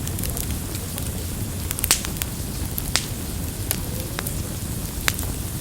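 Campfire burning: a steady low rumble of flames with sharp crackles and pops from the wood, several louder snaps scattered through.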